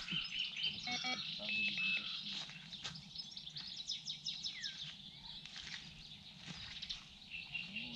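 Birds singing: many short chirps and whistles, with a held whistle about a second and a half in and a falling whistle near the middle.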